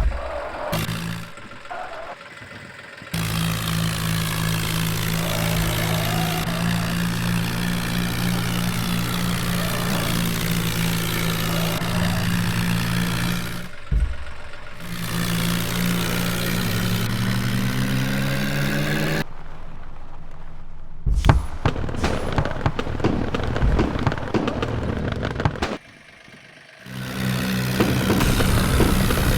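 Tractor diesel engine running, in several abruptly cut segments, with its pitch rising as it revs up partway through; a rougher, crackling stretch comes near the end.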